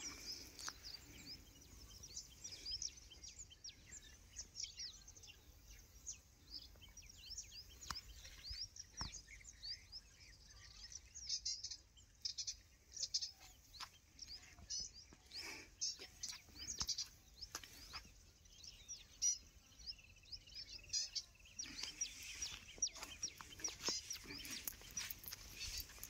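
Birds chirping and calling in scrubland, many short high chirps and quick sweeps throughout, over a faint background hiss.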